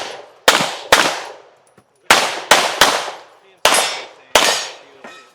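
Pistol fire on a competition stage: seven quick shots in short strings (two, then three, then two) with brief pauses between them. Each crack fades into a short echo.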